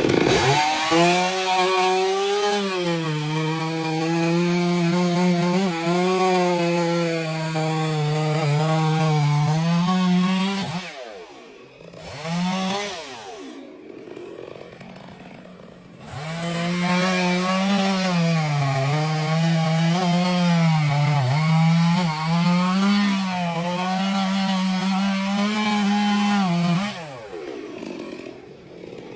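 Sawmill saw cutting wood: a steady motor sound whose pitch sags and recovers as the blade loads up in the cut. There are two long cutting spells, and the sound drops away with a falling pitch for a few seconds between them and again near the end.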